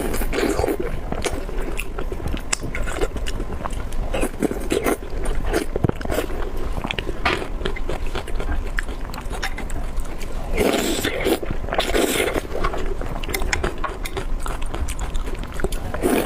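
Close-miked eating: a person biting and chewing food with dense wet mouth clicks and crunches, and two louder bursts of chewing noise about eleven and twelve seconds in.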